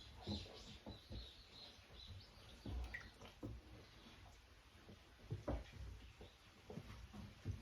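Scattered soft knocks and taps at irregular intervals, with faint high chirps in the first second or so.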